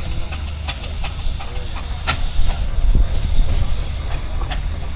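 Steam engines running, with a steady hiss of steam over a low rumble and scattered sharp clicks and knocks of working machinery, the loudest a little over two seconds in.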